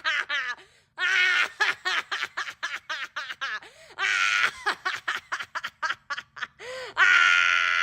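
A person laughing hard in quick, rapid bursts, with a long high-pitched squealing breath about four seconds in and another near the end.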